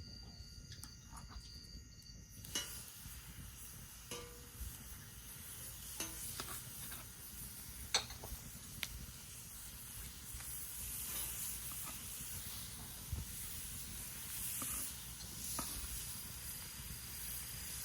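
Meat sizzling on a hot grill, the hiss starting suddenly about two and a half seconds in, with a few sharp clicks scattered through it.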